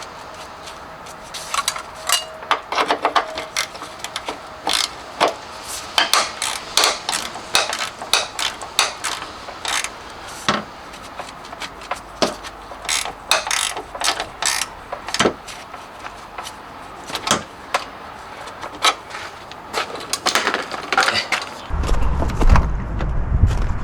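Irregular metallic clicks and clinks of hand tools at work on a car, ratchet-like. A loud low rumble and thumps begin near the end.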